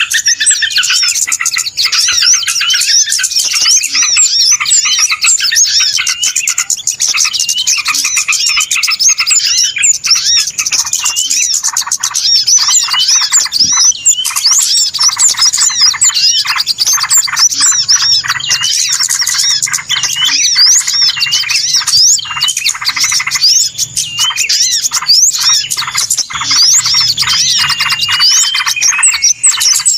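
A dense, busy chorus of many small birds chirping, twittering and squawking all at once, without a pause: a bird-lure (pikat) recording of agitated small birds, used to call wild birds in.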